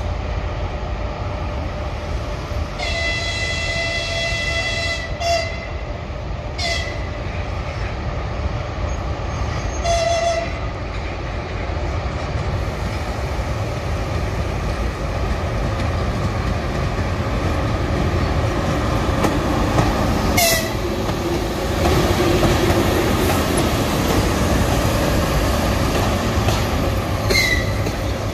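An ЭП20 electric locomotive arriving with a passenger train sounds its horn: one long blast about three seconds in, then several short toots. Over them the rumble of the train grows louder as the locomotive and coaches roll past on the rails.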